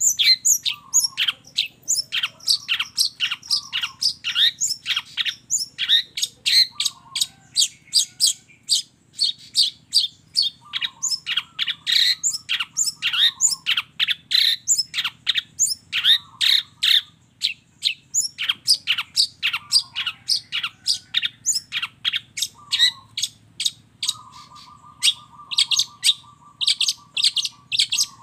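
Long-tailed shrike (cendet) singing: a rapid run of sharp, repeated chirps, about three a second. A steady buzzing trill lasts a few seconds near the end.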